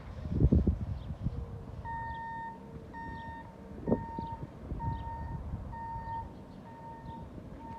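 An electronic warning beeper sounds a steady tone about once a second, starting about two seconds in. Heavy thumps are heard near the start and again about four seconds in.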